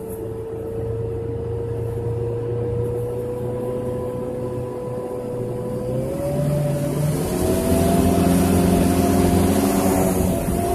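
Off-road truck engine pulling through deep snow, heard from inside the cab: a steady drone with a whine, then the revs climb about six seconds in and the engine gets louder as it works harder.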